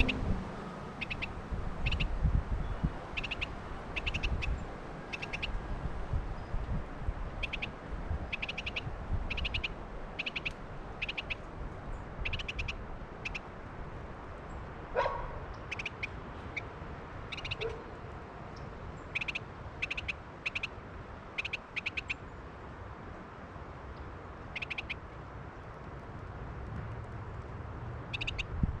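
A small songbird calling over and over in quick clusters of short, high chip notes, about one cluster a second, against a low rumble of wind on the microphone that is strongest in the first few seconds.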